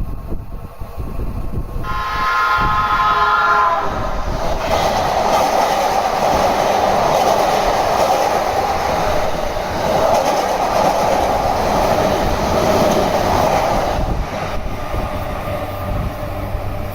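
A JR electric train sounds its horn for about two seconds, the pitch dropping slightly as it ends. It then runs through the station at speed without stopping: a loud, steady rush of wheels and motors for about ten seconds that eases off near the end.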